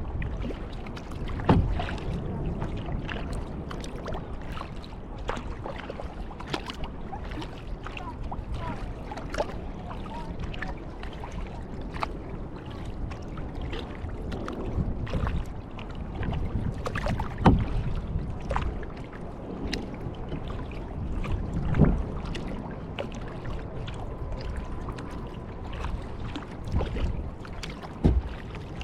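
Kayak paddling: paddle blades splashing and dripping in lake water, with a few sharp knocks scattered through.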